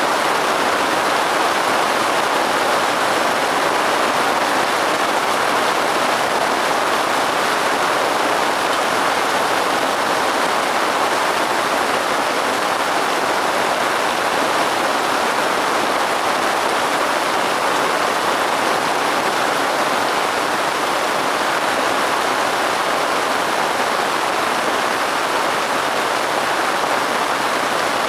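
Steady rain falling, an even hiss with no single drops, gusts or thunder standing out.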